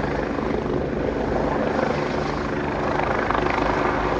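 Eurocopter EC145 twin-turbine helicopter flying overhead, its rotor and engines running steadily.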